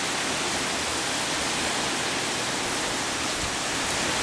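Heavy, steady downpour of hurricane rain, an even rushing hiss with no breaks.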